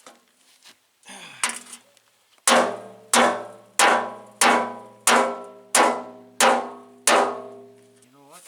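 Sledgehammer pounding a dented metal truck fender: after a couple of softer knocks, eight hard, evenly spaced blows land about one and a half a second, each leaving a ringing metallic tone that fades before the next.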